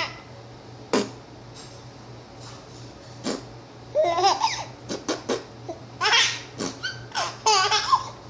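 Baby laughing in several short bursts, set off by the sharp, single pops of a silly noise an adult makes for her.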